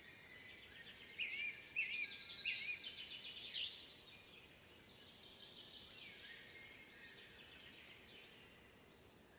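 Woodland birdsong: one bird sings a loud phrase of repeated chirps and trills from about a second in until near the halfway point, over a fainter steady chorus of other birds.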